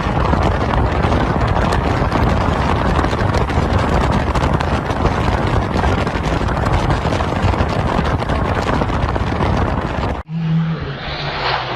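Loud, rough noise of a moving vehicle, a heavy low rumble with crackling, that cuts off abruptly about ten seconds in, followed by a quieter, steady low engine hum.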